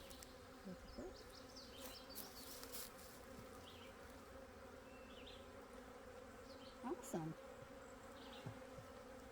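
Honey bees humming faintly and steadily around an open hive frame.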